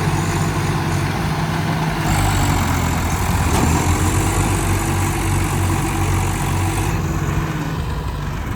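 Tractor engine running steadily with a low, even note.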